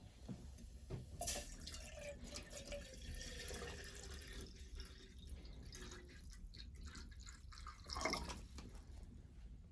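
Water dripping and trickling, with scattered small clicks and a louder splash-like sound about eight seconds in.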